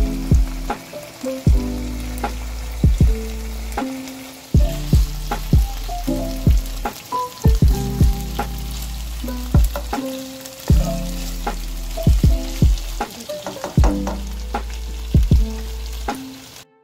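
Chicken tocino sizzling in oil in a nonstick frying pan as the pieces are stirred with a spatula, over background music with plucked notes. The sizzle cuts off just before the end.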